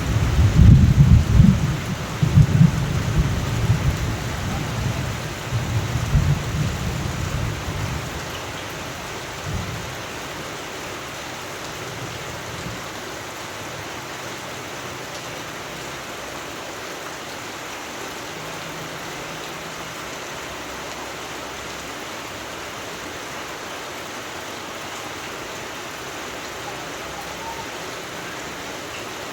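Steady rain with a roll of thunder rumbling loudly through the first several seconds, then dying away about eight seconds in, leaving the even hiss of rain.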